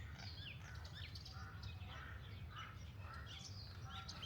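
Small wild birds chirping and calling, many short chirps and quick falling whistles overlapping, over a steady low rumble.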